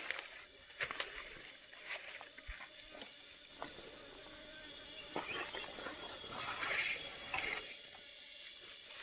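Quiet outdoor background of scattered rustles and light crackles over a steady high-pitched hiss, with a busier patch of rustling near the end.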